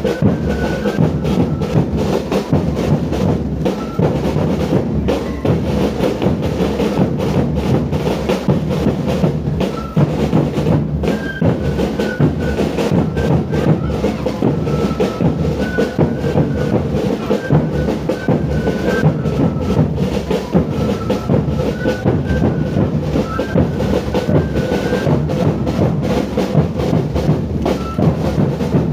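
Live drum music with a steady beat of bass drum and other drums, and a thin, high melody of short notes playing over it.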